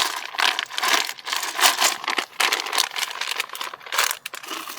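Plastic bags crinkling and rustling in quick, irregular handfuls as food is dug out of a cooler.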